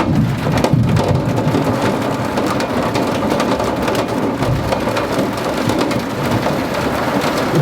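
Heavy rain mixed with small hail coming down hard, a loud steady downpour full of sharp individual hits, with low thunder rumbling in the first second.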